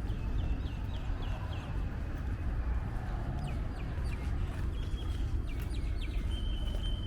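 Birds calling: a quick run of short chirps in the first couple of seconds, then more scattered calls and a brief held note near the end, over a steady low rumble.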